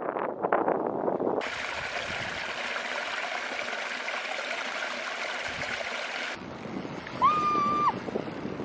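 River water rushing as a steady hiss, which cuts off abruptly about six seconds in. Near the end a single short, high, steady tone sounds for under a second.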